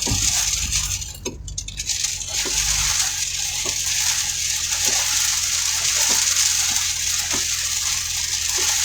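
Wind-driven heavy rain hissing steadily on a vehicle, with a faint regular knock about every 1.2 seconds, typical of windshield wiper strokes. A low rumble under it drops away about three seconds in.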